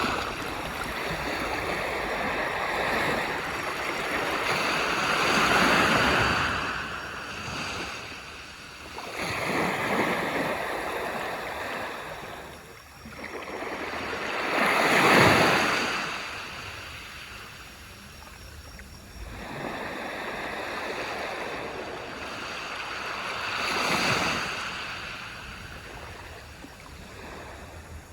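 Small waves breaking and washing up a beach, each one swelling and falling away, one every several seconds, the loudest about halfway through.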